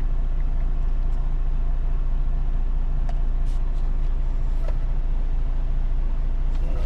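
Semi truck's diesel engine running with a steady low rumble, heard from inside the cab, with a few faint clicks.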